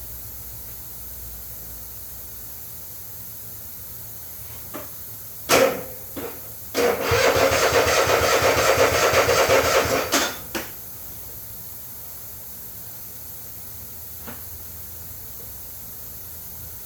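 Electric starter cranking a zero-turn mower's engine: a brief bump about five and a half seconds in, then about three and a half seconds of cranking with a rapid even pulse that stops without the engine catching. The mower is hard to start on a battery that tests weak.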